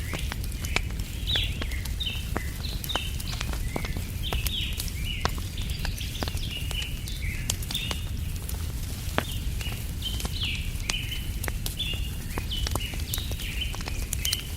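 Campfire crackling with frequent sharp pops, over continual high chirping of small birds and a steady low rumble.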